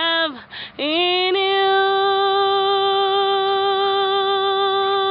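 A teenage girl singing solo: a phrase falls away, she takes a short breath, then slides up into one long, steady held note that ends the song.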